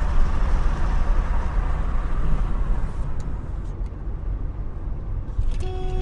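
Steady rumble of a car on the road, engine and tyre noise, with a few faint clicks a little past the middle and a steady tone starting near the end.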